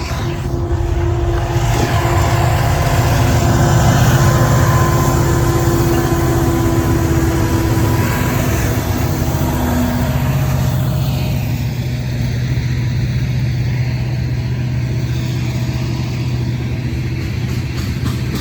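CN GE ET44AC diesel locomotive running under load as it leads a long tanker train, its engine a steady low drone over rolling rail noise. It is loudest about four seconds in; from about eleven seconds on the higher noise thins out and a steady low hum remains.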